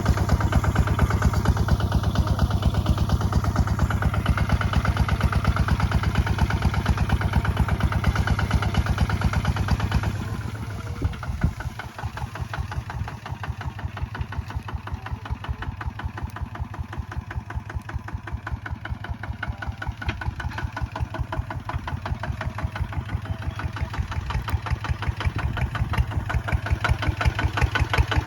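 Kubota ZT155 single-cylinder diesel engine running with a steady, rapid thud of firing strokes. About a third of the way in it drops back sharply, then gradually builds up again toward the end.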